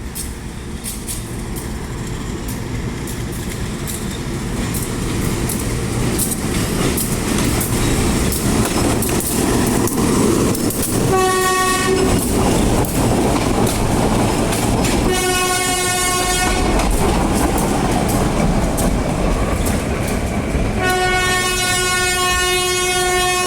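GE U12B diesel-electric locomotive and two railcars getting under way: a low engine and wheel rumble builds up, with the wheels clicking over the rail joints. The air horn sounds three times, first a short blast, then one of about two seconds, and near the end a long one.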